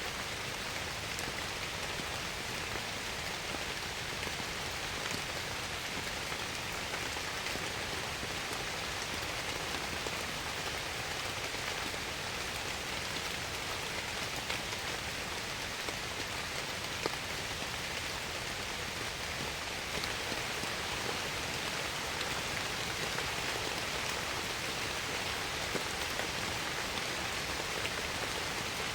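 Steady rain falling, with scattered louder drops ticking through it.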